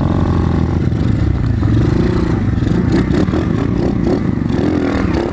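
Motorcycle engine running under load on a rough dirt track, its note rising and falling as the throttle changes, with rattling and knocking from the bike over the bumps.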